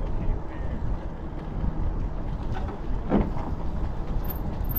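Wind rumbling on the microphone during a bicycle ride, a steady low buffeting, with a short pitched sound about three seconds in.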